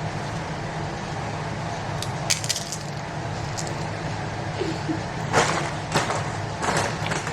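Tortilla chips being bitten and chewed: a few short, sharp crunches, one about two seconds in and a cluster later on, over a steady low background hum.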